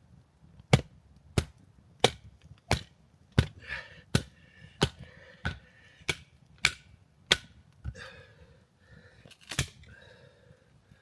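Wood being chopped: about a dozen sharp, evenly spaced chops, roughly three every two seconds, with a short pause before a last chop near the end.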